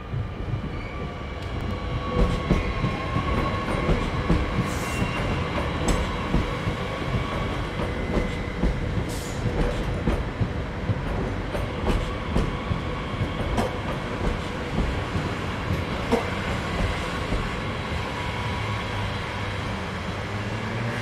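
Double-deck Transilien electric trains moving through the station: a steady rumble of wheels on rails with scattered rail clicks and a steady electric whine. Near the end a low hum rises as another train comes in.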